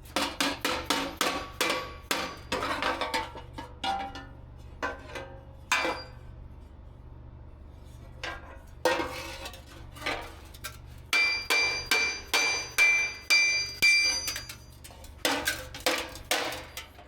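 Hammer blows on a warped sheet-steel battery tray over an anvil, straightening it: runs of quick strikes with a metallic ring, and a pause of about two seconds in the middle.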